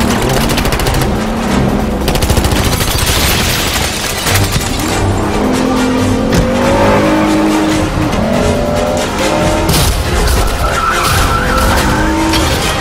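Film car-chase sound mix: car engines running hard and revving, tyres skidding, and bursts of automatic gunfire, over a music score.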